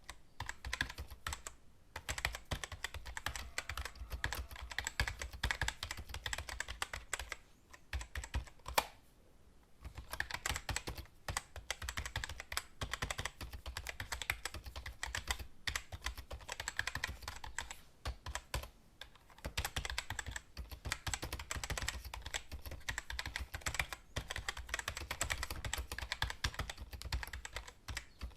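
Computer keyboard typing: fast, continuous keystroke clicks in runs, broken by brief pauses. About nine seconds in, a single louder key press comes just before a pause of about a second.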